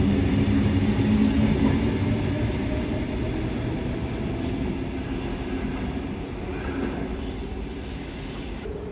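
Sydney electric suburban train running along the platform, its rumble and motor tones loud at first and fading steadily as it moves away.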